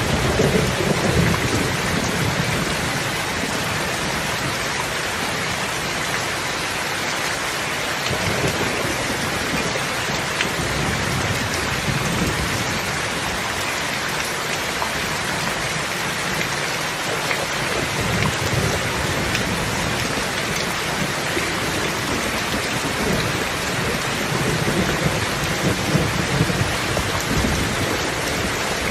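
Steady rain falling in an even hiss, with low rumbles that swell and fade several times.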